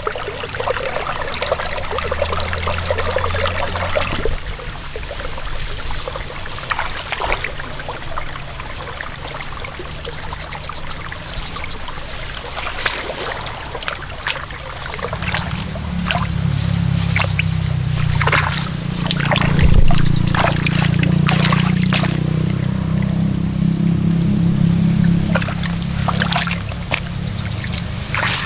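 Water splashing and trickling in repeated short strokes, with a steady low hum that grows louder about halfway through.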